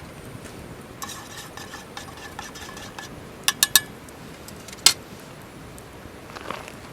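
Metal utensils on cookware: about two seconds of light stirring and scraping, then three quick sharp clinks and a single louder clink a second later.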